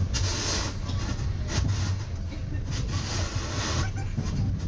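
Metra commuter train heard from inside its cab car: a steady low rumble with short noisy bursts that come and go every second or so.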